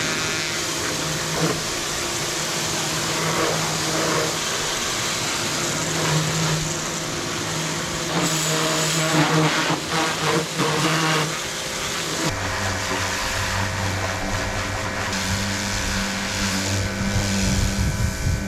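A pressure washer spraying water, with a steady motor hum under the hiss of the spray. About two-thirds of the way through, the spray hiss drops away and a lower, steady hum carries on.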